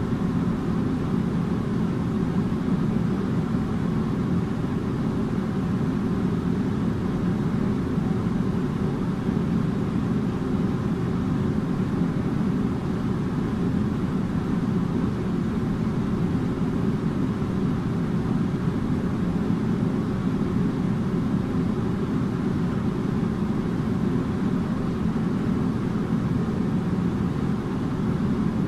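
Air conditioner running steadily: an even, low whooshing drone of fan and airflow, with a faint steady hum and no change in level.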